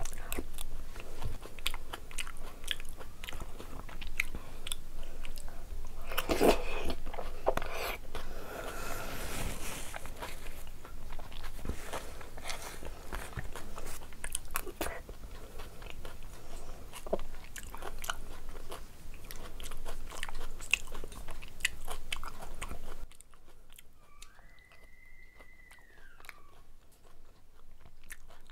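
Close-up mouth sounds of a person eating dahi puri from a spoon: crisp puri shells crunching and being chewed. The crunching is loudest around six to ten seconds in and turns to softer chewing for the last few seconds.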